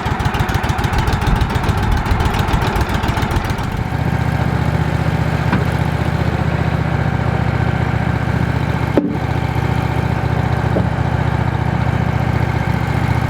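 Woodmizer LX 150 sawmill's engine running steadily. About four seconds in the sound changes to a smoother, steadier low hum, and a brief dropout comes at about nine seconds.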